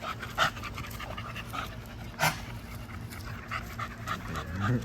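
American bully dog panting quickly and rhythmically, with two sharp clicks, about half a second and about two seconds in.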